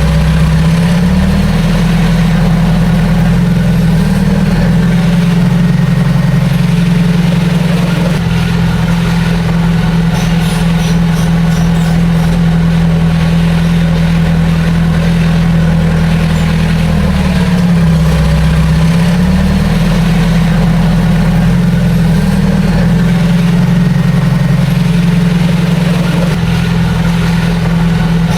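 Heavy diesel engine of earthmoving machinery running steadily and loudly. Its note sags briefly and recovers twice, once right at the start and once about two-thirds of the way through.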